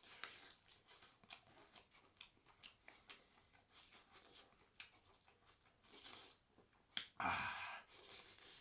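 Close-up eating sounds: a run of small, sharp clicks and crackles of food being torn by hand and chewed. A louder, hissy sound comes in about seven seconds in.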